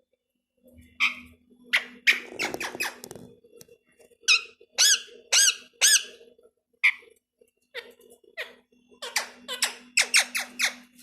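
Pet parrot giving a series of short, high, squeaky calls, each an arched chirp, coming in irregular clusters from about a second in.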